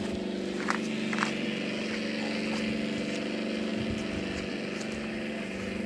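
Sound module in a radio-controlled T-28 Trojan model playing a simulated radial engine running steadily, heard from about twenty to thirty metres away.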